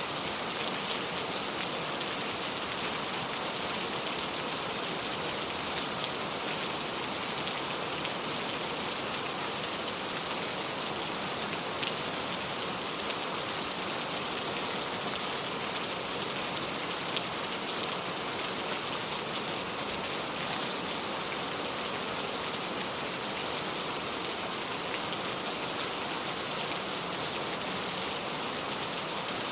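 Heavy, steady rain pouring down, a dense even hiss of drops with faint individual drop ticks scattered through it.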